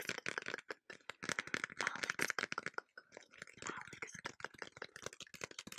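Fast, irregular ASMR tapping and clicking close to the microphone, many sharp clicks a second, with a faint breathy hiss in places.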